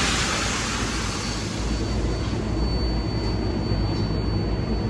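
A New York City subway train running with a steady low rumble. A hiss of air at the start fades away within the first second or two.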